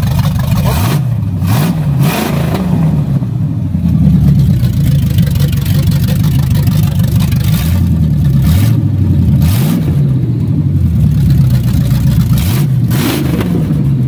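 Freshly swapped carbureted engine in a Camaro, running and revved up and back down about three times from idle. This is its first run after the engine swap.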